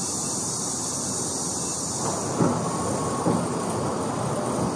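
Metro train running with a steady rumble and hiss. About halfway through come two knocks about a second apart, as a bogie's wheels pass over a rail joint.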